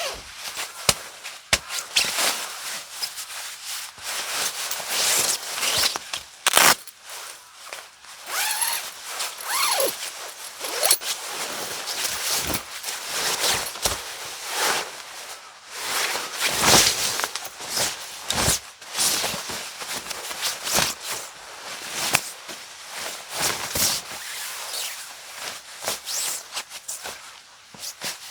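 Camping gear being handled and set up: continual rustling and scraping with many sharp clicks and knocks, a zipper-like rasp among them.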